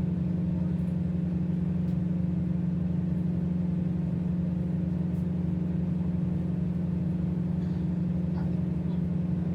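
Tugboat's diesel engines running steadily, a constant low hum.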